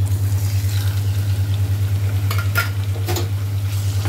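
Marinated chicken pieces sizzling in hot oil in a non-stick pan as they are tipped in and stirred with a spatula, with a few sharp scrapes of the spatula on the pan between about two and three seconds in. A steady low hum runs underneath.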